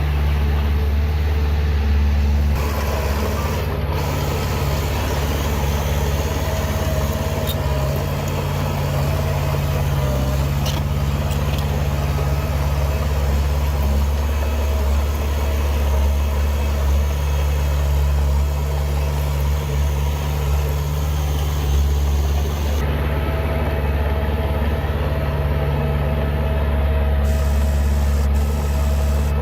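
Heavy diesel engine of earthmoving machinery running steadily, a deep low hum that holds nearly constant.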